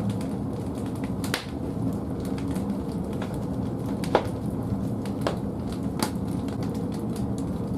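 Firewood burning in the firebox of a wood-fired boiler: a steady low roar of the fire with scattered sharp crackles and pops, the loudest pop about four seconds in.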